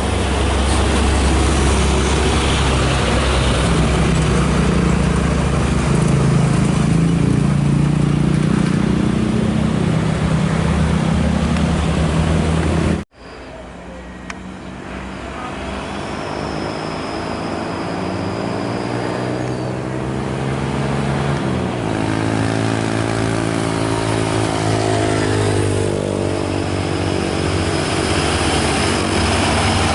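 Heavy diesel truck engines running under load. The sound cuts off abruptly about 13 seconds in, then a truck engine's note rises steadily and holds.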